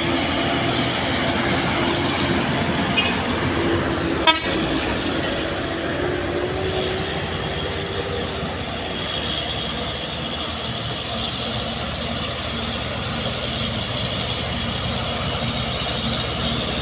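Heavy diesel truck traffic: engines running with a loud steady drone and a tone that rises slowly in pitch over the first half. A single sharp click comes about four seconds in.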